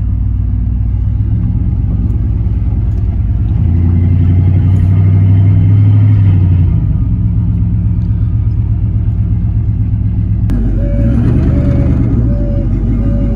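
V8 engine in a Chevy S10 pickup running with a rumble; it revs up louder about four seconds in and eases back a few seconds later. Near the end a click is followed by a string of short, evenly spaced high beeps, like a warning beeper.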